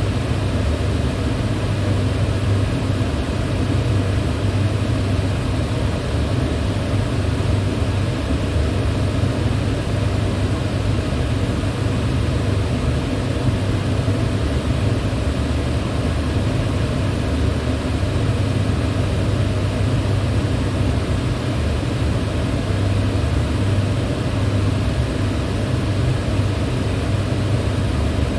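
Electric fan running steadily: an even rushing noise with a strong low hum that does not change.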